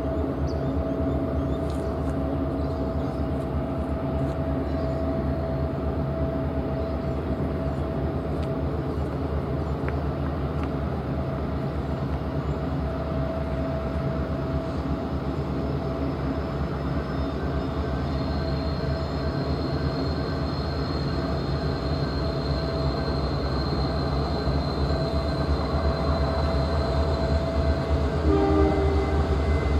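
Diesel freight train running, a steady low engine rumble with steady tones, growing louder near the end. A thin high squeal runs through the second half.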